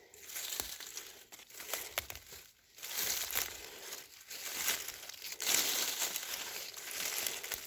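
Close, irregular rustling and crinkling with small crackles, quieter at first and busier and louder from about three seconds in.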